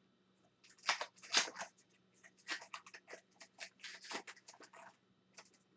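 Hockey trading card packs and cards being handled: a dense run of quick crackling rustles, as from foil wrappers and cards being flicked through, easing off about a second before the end.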